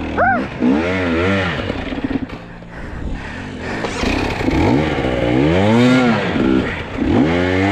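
Two-stroke enduro dirt bike engine revving up and down in repeated surges while the rider fights for traction on a steep rutted climb, easing off briefly in the middle before revving hard again.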